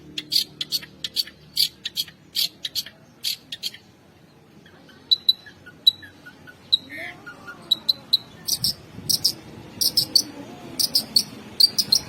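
Long-tailed shrike (cendet) singing a string of sharp, harsh notes, about three a second for the first few seconds. After a short lull with a few scattered notes, it returns near the end in quick clusters of sharp notes.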